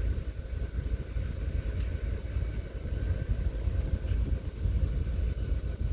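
Low, uneven rumble of railyard machinery with a faint steady high whine.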